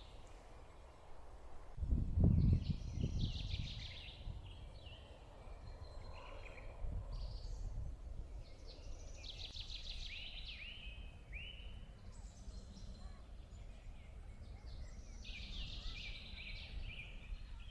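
Small songbirds singing and calling in several bursts of quick, repeated high notes. Wind rumbles on the microphone, strongest about two seconds in.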